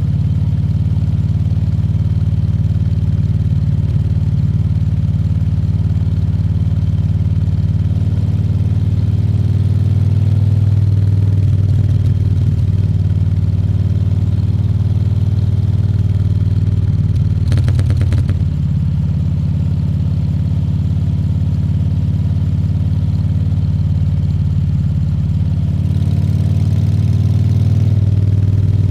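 Harley-Davidson Fat Bob 114's Milwaukee-Eight V-twin engine running steadily at low revs on the ride, with a short rattling burst about eighteen seconds in.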